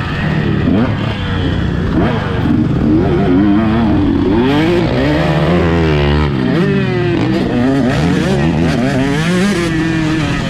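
Motocross bike engine revving up and down under changing throttle, its pitch climbing and dropping again every second or so.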